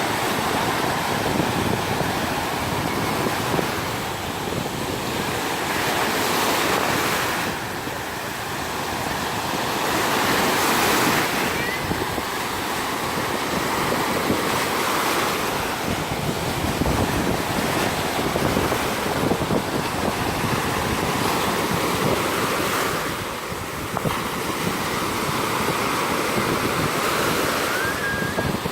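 Black Sea surf washing onto a sandy beach: a continuous rush of breaking waves that swells louder every several seconds as each wave comes in.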